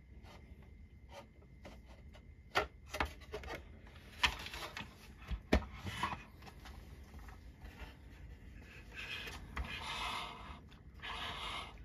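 Hard plastic toy parts being handled and fitted together: scattered light clicks and taps, then a longer stretch of plastic rubbing and scraping in the second half.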